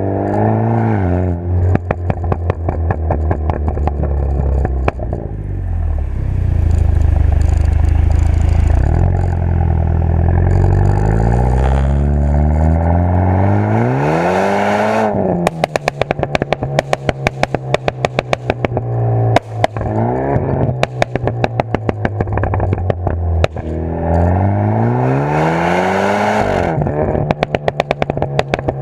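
BMW F30 320i's turbocharged four-cylinder running through an XEX aftermarket exhaust: a steady low drone, then two climbs in pitch as it revs, each followed by rapid crackling and popping from the exhaust as the throttle is let off.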